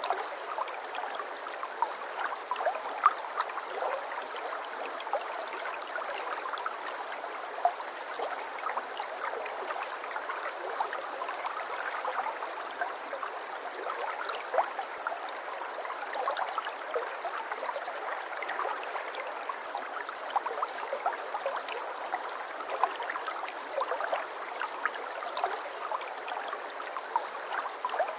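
Shallow brook babbling over stones: a steady wash of water with many small plinks and splashes.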